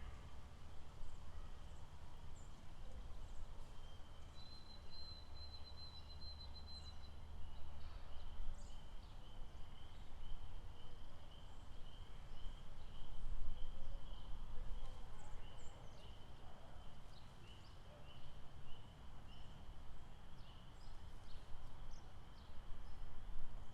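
Lakeside outdoor ambience: a continuous pulsing animal trill, with many short, high bird chirps scattered through it, over a constant low rumble. A higher steady whistle-like tone joins briefly a few seconds in.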